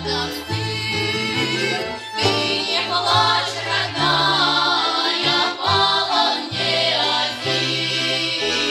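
Folk choir singing a slow patriotic song, several voices together over a held instrumental bass line that shifts from note to note.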